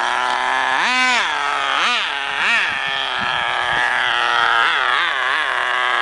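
Small two-stroke nitro glow engine of a 1/10-scale RC buggy running at a high, buzzy pitch, with quick throttle blips that rise and fall: a big one about a second in, two more around two seconds, and a few small ones near the end.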